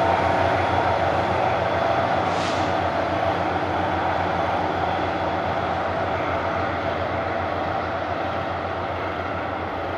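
Commuter train running through the station: a steady rumble with a low hum that slowly fades.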